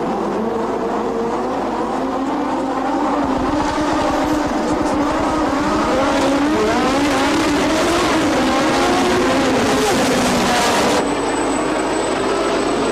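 Several 1986 Formula One cars' 1.5-litre turbocharged engines running together, their pitches rising and falling as they rev, growing louder a few seconds in. The sound changes abruptly about eleven seconds in, at an edit.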